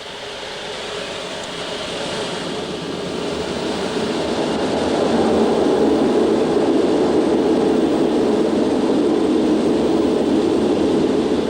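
Concorde's four Olympus 593 turbojets being brought up to takeoff power with reheat, heard from the flight deck. The steady engine and rolling noise grows louder over about five seconds as the takeoff roll begins, then holds loud and even.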